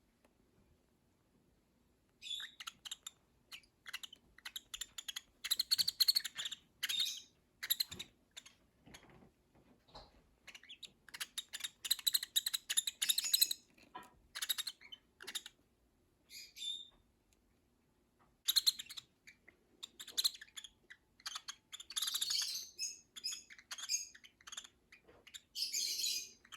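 Baby peach-faced lovebirds chirping, short high calls coming in bursts with brief pauses between them.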